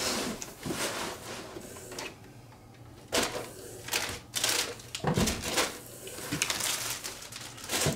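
A cardboard box and its packing being handled and moved: irregular rustling with scattered knocks and clatters.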